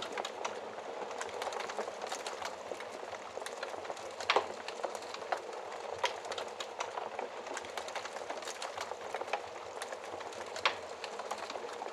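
Wood fire in a fireplace crackling steadily, with frequent small snaps over a soft hiss and two louder pops, about four seconds in and again near the end.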